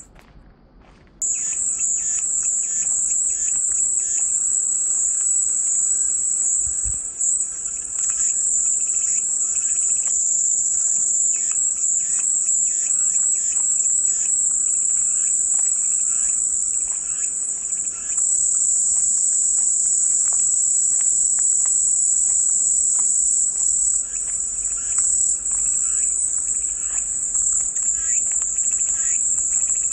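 Cicadas droning in a dense, steady, high-pitched chorus. The sound drops out for about a second right at the start, then comes back. Faint bird chirps sound underneath.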